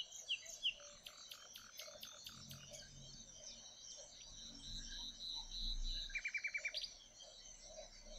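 Faint birds chirping, with many short notes and a quick run of about eight notes near the end.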